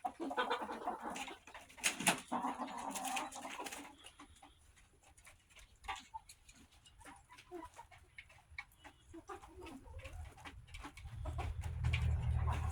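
Backyard chickens clucking while feeding on scratch grain, with scattered light clicks. The clucking thins out after about four seconds, and a low rumble builds near the end.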